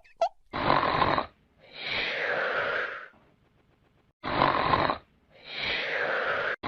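Comedy snoring sound effect: two snore cycles, each a short rasping inhale followed by a longer breathy exhale that falls in pitch.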